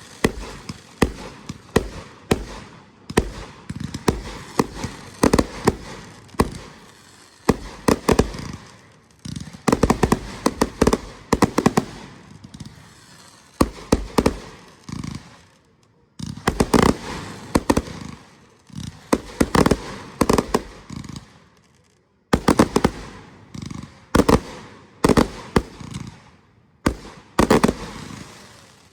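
Fireworks going off: many sharp bangs in rapid bursts of several a second, with short breaks between the volleys.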